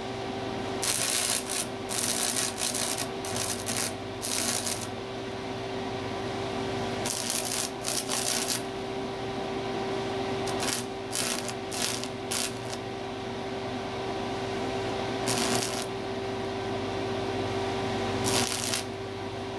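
Drill press motor running with a steady hum, while the bit cuts into aluminum diamond plate in several short bursts of scraping hiss, the longest about a second in and the others spread through the rest.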